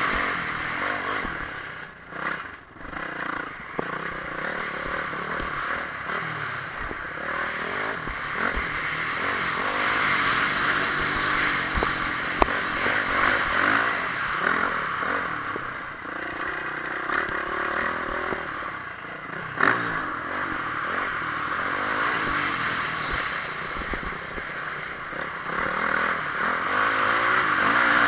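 Motocross bike's single-cylinder four-stroke engine (Honda CRF450R) revving up and down continuously under racing throttle. The throttle is briefly chopped about two seconds in, and a couple of sharp knocks come later.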